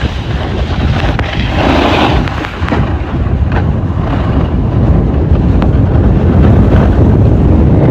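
Wind buffeting the microphone of a camera riding down a snow slope: a loud, steady low rumble.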